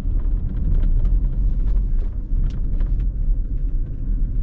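Ford Mustang Mach-E electric car on the move: a steady low rumble of road and tyre noise.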